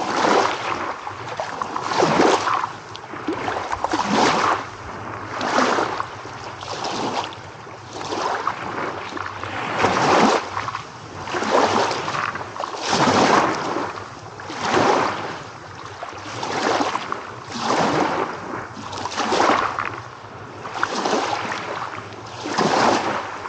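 Small waves washing in and out, a rush of water every second and a half or two, rising and falling in a steady rhythm.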